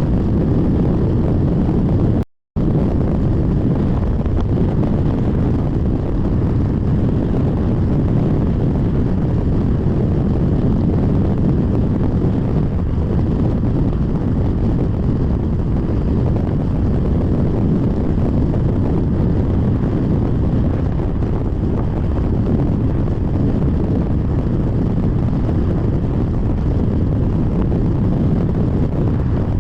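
Steady, loud, low rumble of strong storm wind buffeting the microphone, cutting out for a moment about two seconds in.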